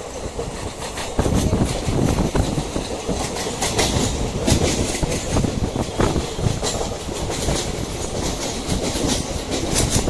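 Train running on the track: a steady rumble of wheels and cars, with a clickety-clack of wheels over rail joints that grows denser from about three seconds in.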